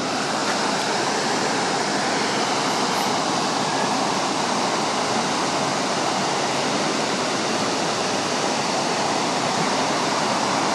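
Waterfall rushing: a steady, unbroken noise of falling water with no change in level.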